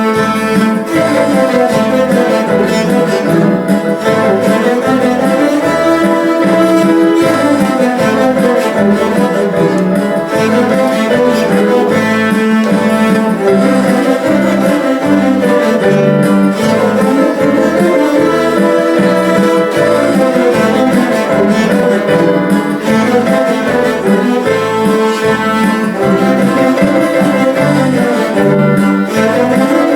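A cello ensemble playing a piece together, several bowed cellos in overlapping melodic lines.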